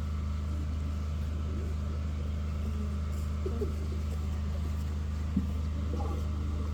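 Steady low electrical hum from the hall's sound system, with faint distant voices and a soft knock or two.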